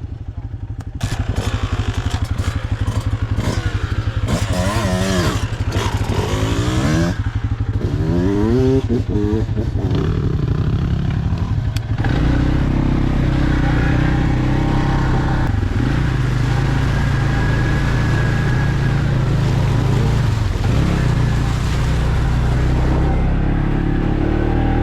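Off-road vehicle engine running on a trail ride. The revs rise and fall repeatedly in the first ten seconds, then settle into a steadier, heavier run from about twelve seconds in.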